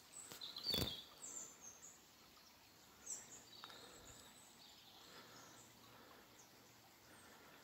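Faint open-air quiet with a few short, faint bird chirps, and a single sharp knock about a second in.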